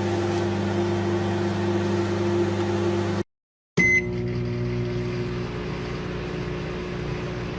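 Microwave oven running with a steady hum. It cuts out for about half a second a little past three seconds in, then a click and a short beep, and the hum carries on.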